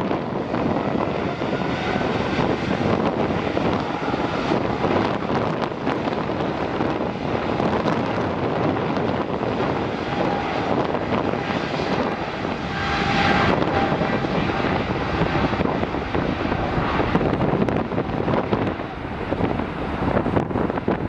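Jet airliner engines passing, a dense rushing noise with a faint whine in it that swells to its loudest about thirteen seconds in.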